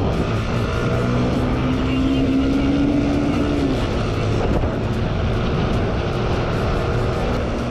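Motorcycle engine running hard at speed under a rush of wind noise, its pitch climbing steadily for a few seconds before falling away.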